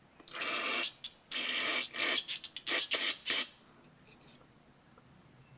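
Aerosol carburetor cleaner sprayed in bursts through a small-engine carburetor's fuel passages: two longer hissing blasts, then several short ones, stopping about three and a half seconds in.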